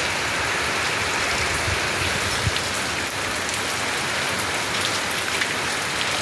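Heavy rain falling steadily, a dense hiss of drops with scattered sharper drop hits.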